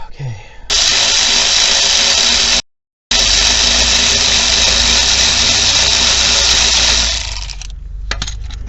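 Handheld power tool, drill-type, running in two long spells, backing bolts out during an engine teardown. The first spell lasts about two seconds and is cut off dead for half a second; the second runs about four seconds and dies away near the end.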